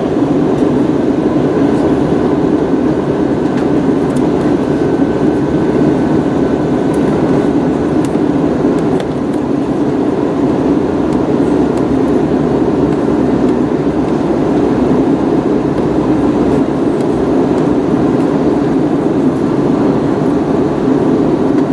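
Steady cabin noise of an Airbus A321neo airliner on final approach, the engines and rushing air heard from inside the passenger cabin. A faint thin whine sits above the rumble for the first several seconds, then fades.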